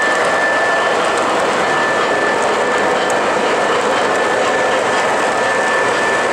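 O scale model train running on the layout's track: a steady rolling noise with a thin, high, steady tone over it.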